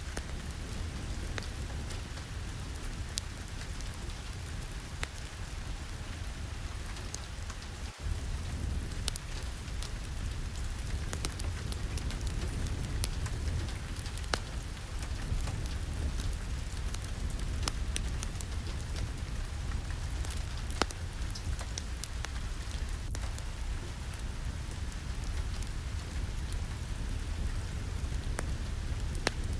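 Steady rain falling, with many sharp scattered ticks of drops over a low rumble. About eight seconds in there is a brief dropout, after which it is slightly louder.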